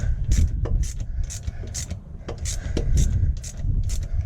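Socket ratchet clicking in repeated strokes, about three clicks a second with a short pause near the middle, as a bolt is run in to fit an engine mount.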